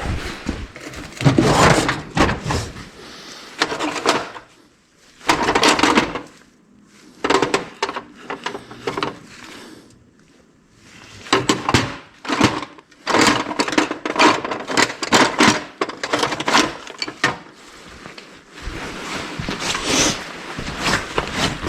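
Scattered clicks, knocks and scrapes of hand work on a compact tractor: side-cover screws being taken out and the cover handled. The sounds come in clusters with short quiet gaps between.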